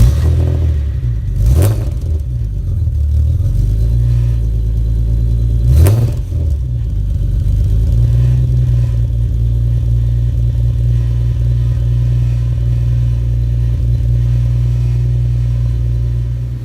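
Nissan 300ZX (Z32) 3.0-litre V6 just after a cold start, caught on the button after weeks unstarted. It is revved briefly twice, about a second and a half in and about six seconds in, then settles into a steady idle.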